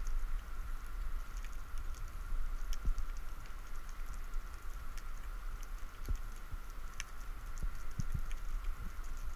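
Underwater ambience over a rocky reef: scattered sharp clicks and crackle over a steady low rumble, with a few soft low thumps.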